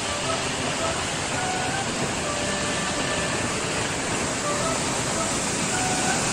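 Steady loud rush of falling water, with soft background music notes faintly over it.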